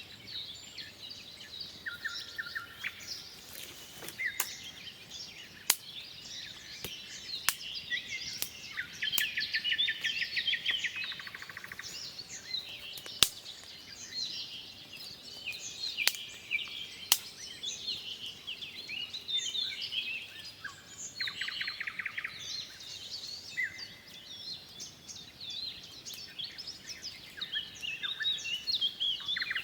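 Several songbirds singing at once in woodland, a dense chorus of chirps with a few rapid trills. A handful of sharp clicks are scattered through it.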